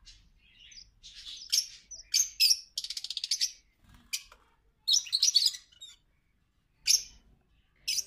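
Caged aviary birds chirping in short bursts of sharp, high calls, with a fast chattering run about three seconds in.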